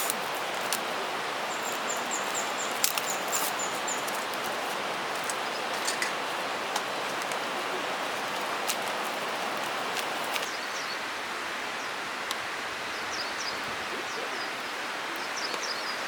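Steady outdoor rushing noise, with a small bird chirping in quick runs of high notes about two seconds in and again several times near the end, and a few scattered sharp clicks.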